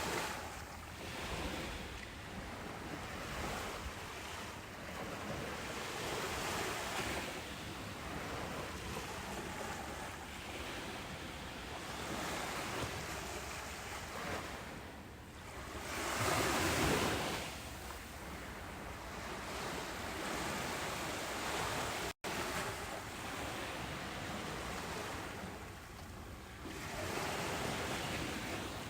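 Ocean surf on a beach: a continuous rushing wash of waves that swells and ebbs every few seconds, the biggest wave breaking a little past halfway. A split-second gap in the sound comes about three-quarters of the way through.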